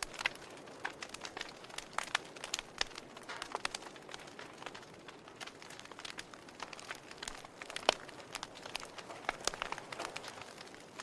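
Wood fire in a fireplace crackling: irregular sharp pops and snaps over a soft steady hiss, with one louder pop about eight seconds in.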